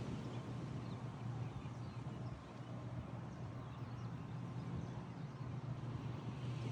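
Ocean surf on the shore: a steady low rumble with a soft hiss between waves, and a few faint bird chirps.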